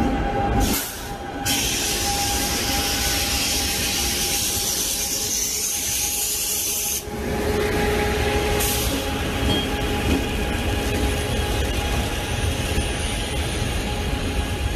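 Passenger train rolling slowly past a station platform: a steady rumble and hiss from the moving coaches, with a faint steady tone underneath. The sound changes abruptly a few times where separate clips are joined.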